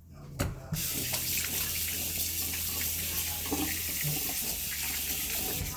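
Water running from a tap into a sink, turned on with a short knock under a second in and shut off just before the end.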